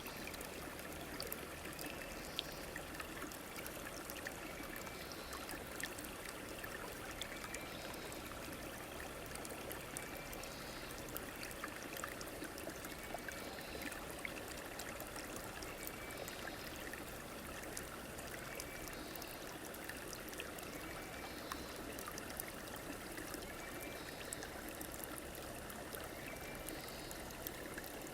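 A stream running and trickling steadily, with small scattered drip-like clicks. A faint short call repeats about every two and a half to three seconds over the water.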